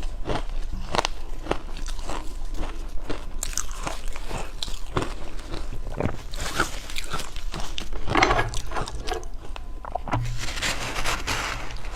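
Close-miked biting and chewing of ice: many sharp crunches, with denser bursts of crunching every couple of seconds.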